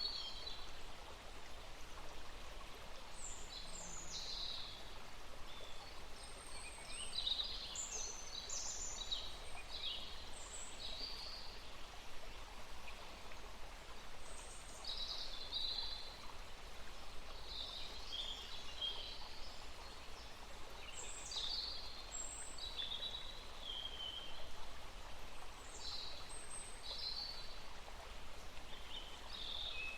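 Birds singing, with short chirps and warbled phrases coming every second or two from more than one bird, over a steady background hiss.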